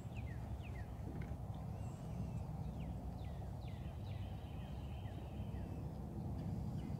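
Small birds chirping faintly in woodland, a scatter of short, quick downward chirps over a low steady background rumble.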